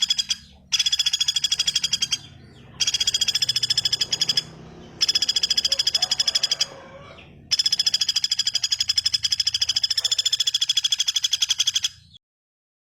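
A songbird giving rapid, buzzy rattling trills in about five bursts of one to four seconds each, with short gaps between them, stopping near the end. This is a recorded call played as masteran training song for cage birds.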